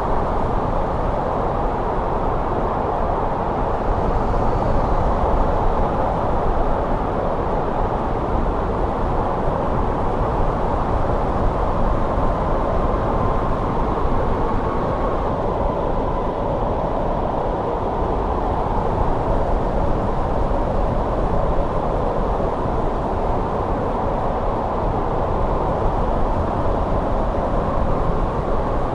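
Steady winter wind blowing, a dense low rumble without breaks, with a faint thin whistle in the middle of the stretch.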